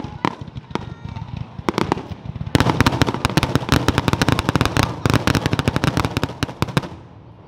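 Aerial fireworks going off: scattered bangs at first, then from about two and a half seconds in, a dense rapid barrage of bangs and crackles that lasts about four seconds and dies away near the end.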